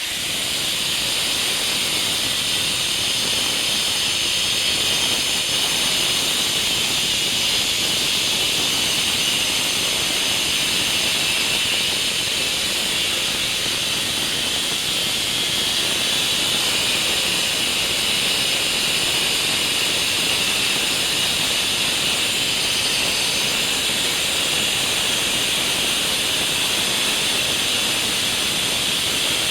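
Fiolent electric wall chaser running steadily, cutting a chase into a wall: a loud, even, high-pitched grinding hiss that builds up over the first second and then holds level.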